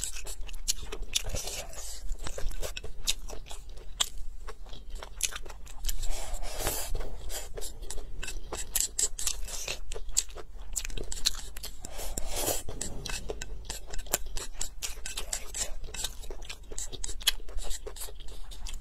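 Close eating sounds: chewing and smacking a mouthful of rice, egg and peppers, with chopsticks clicking and scraping against the bowl in many quick, irregular clicks.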